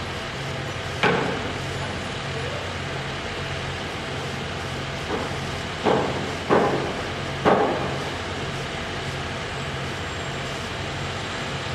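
Steady engine or machinery running with a low pulsing hum, broken by sharp bangs: one about a second in and a quick cluster of three or four between about five and eight seconds.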